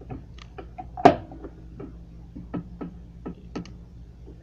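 Light clicks and taps of hands handling the sewing machine and thread, with one sharper knock about a second in.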